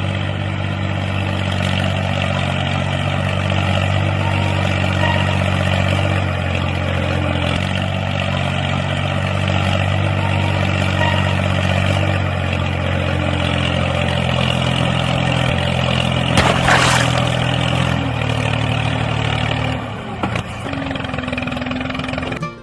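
Tractor engine running steadily at low revs, its pitch stepping slightly a few times. About 16 s in there is a brief rattle, and the engine drops back near the end.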